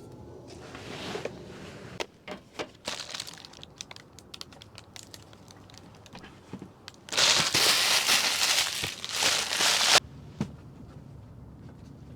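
Handling noises: scattered clicks and knocks, then about three seconds of loud crinkling and rustling of material being crumpled, which stops abruptly.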